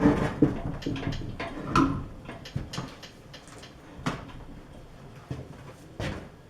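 Clunks, knocks and clicks of heavy metal drill press parts being handled and set in place, thickest in the first two seconds, then a few separate knocks about four and six seconds in.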